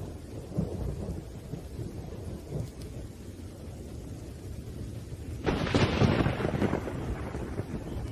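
Thunder rumbling low under steady rain, with a sudden louder thunderclap about five and a half seconds in that dies away over a second or two.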